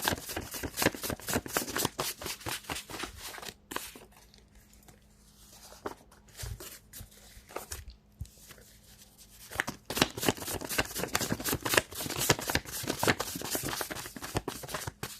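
A deck of cards being shuffled by hand: a quick run of papery card clicks and flutters for the first few seconds, a quieter stretch with scattered clicks, then another busy spell of shuffling in the second half.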